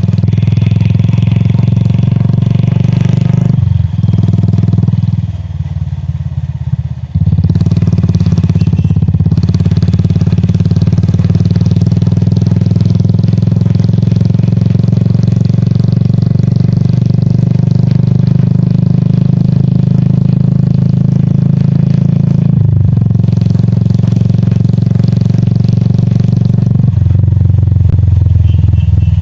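A Royal Enfield Classic 350's single-cylinder engine running steadily under way, heard from the rider's seat. It eases off for a few seconds about four seconds in, then pulls again, with a brief dip in the engine note later on.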